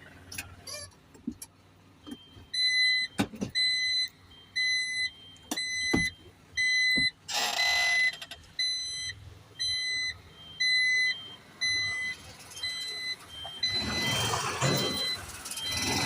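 Garbage truck's reversing alarm beeping steadily, about one and a half beeps a second, with a second, higher beep interleaved. A brief hiss comes about halfway through, and a longer noisy rush near the end.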